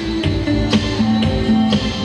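Live rock band playing an instrumental passage: held guitar notes over bass, with a steady beat of about two hits a second.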